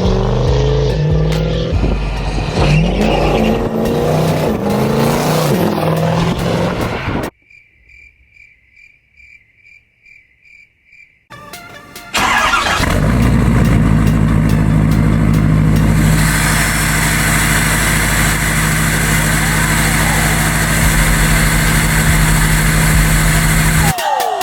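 Diesel pickup truck engine running and revving loudly. After about seven seconds it cuts off to a few seconds of quiet with a steady row of electronic beeps. From about twelve seconds a loud, steady engine-like sound returns.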